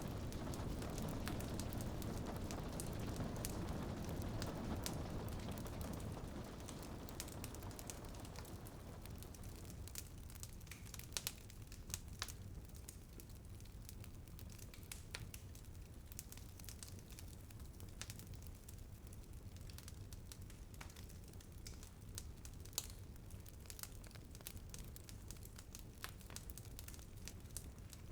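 Wood fire in a fireplace crackling, with many small snaps and a few louder pops. Soft rain hiss underneath eases off over the first third.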